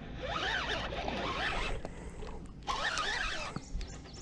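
Fishing reel being cranked in two rasping bursts while a hooked bass is fought in.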